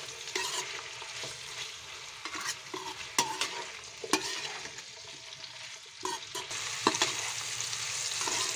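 Boiled raw jackfruit pieces sizzling as they fry in hot oil in a pan, stirred with a metal slotted spoon that clicks and scrapes against the pan several times. The sizzle grows louder about six seconds in.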